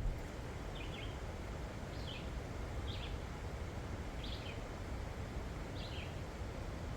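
A bird repeating a short, high two-note call about once every second or so, over a steady low hiss of outdoor background noise.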